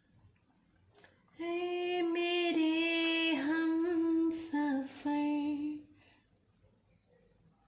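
A high voice singing long, mostly level notes with small dips in pitch, lasting about four and a half seconds with a short break near the end.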